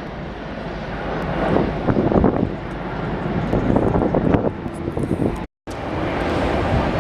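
Jet airliner engine noise mixed with heavy wind buffeting on the microphone. The sound cuts out completely for a split second about five and a half seconds in.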